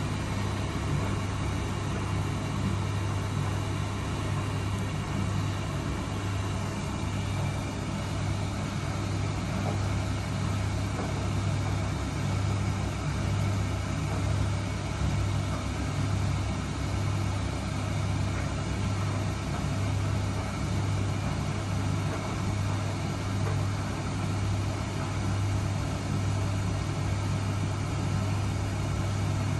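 Miele W1 washing machine running: a steady low hum with a slight regular pulse over an even mechanical noise.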